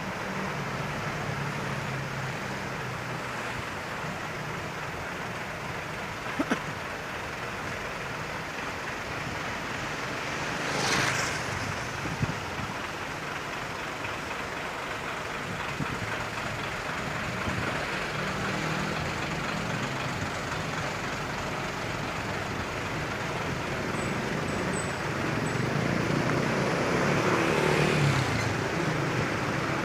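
Road traffic with trucks running steadily. A vehicle passes close about eleven seconds in, and another swells louder near the end. There are a couple of short sharp clicks.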